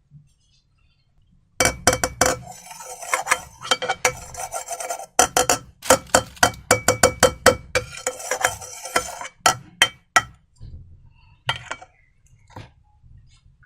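Slime being stirred and squished in a container, making a dense run of sticky clicks and crackles that thins to a few scattered clicks about ten seconds in.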